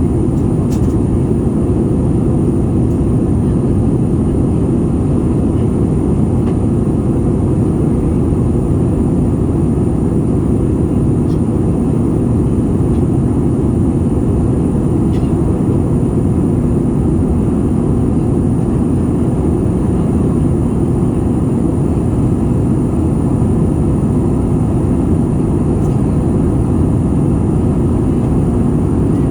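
Airliner cabin noise in flight: the steady, loud rumble of the jet engines and airflow, deep and unchanging, with a thin steady high whine above it.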